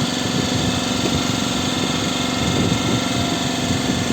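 A fishing boat's engine idling steadily with an even hum.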